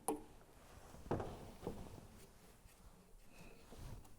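A few faint knocks and clicks over quiet room tone.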